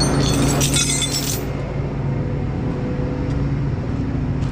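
Hino rollback tow truck's diesel engine running steadily, with a burst of metallic jingling and clinking in the first second and a half.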